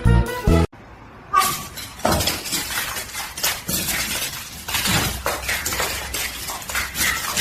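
A short stretch of music cuts off under a second in. After a brief pause comes a run of sharp clinks and clatters of hard objects knocking together.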